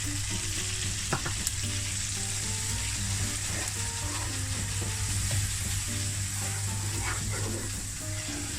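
Tomatoes and spices sizzling steadily as they fry in a cooking pot for chicken pilau. A soft melody plays underneath.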